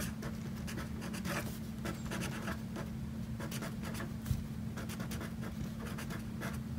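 Felt-tip pen scratching across lined notebook paper in many short strokes as a word is handwritten, over a faint steady hum, with one soft bump about four seconds in.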